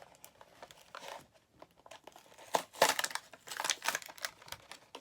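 Plastic and cardboard toy packaging crinkling and tearing as it is pulled open by hand, in uneven crackles that are loudest about halfway through.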